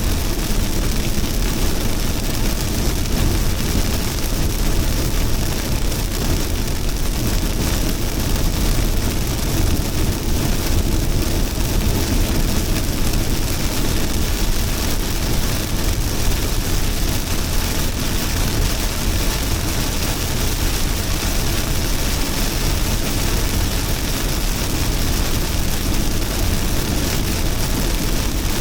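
Heavy rain falling steadily: a dense, even hiss with a deep rumble underneath.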